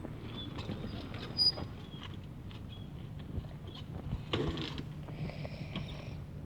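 Dirt bike engine running steadily with a low hum, with a few small clicks and knocks over it.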